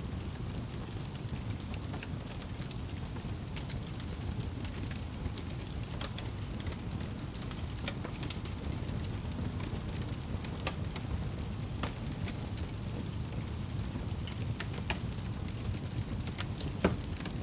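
Wood fire crackling in a fireplace: a steady low rumble of flames with frequent sharp pops and snaps at irregular moments, one louder pop near the end.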